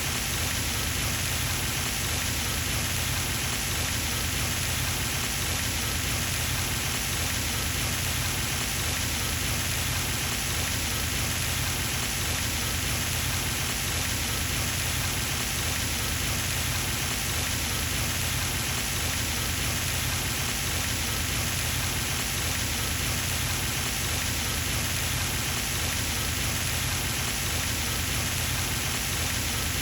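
Pond fountain splashing: a steady, even hiss of falling water spray landing on the pond surface, unbroken throughout.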